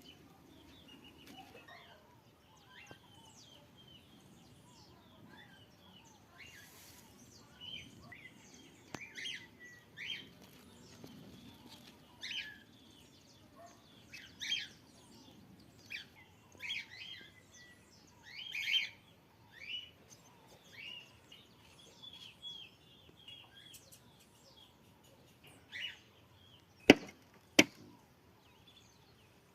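Birds chirping, cockatiels among them: short calls and chirps, a few each second at times. Near the end come two sharp clicks about half a second apart, louder than the birds.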